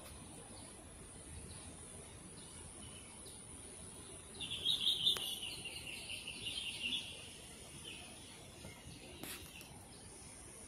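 A songbird chirping in a quick run of high notes lasting two or three seconds, starting about four seconds in, over faint outdoor background noise.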